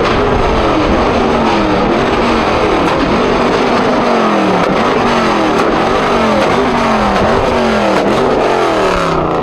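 Car engines revved hard over and over, the pitch climbing and dropping repeatedly, with several engines overlapping.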